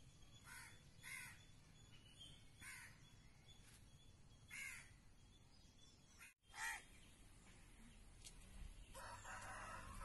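Several short, faint bird caws, a second or two apart, over quiet background noise.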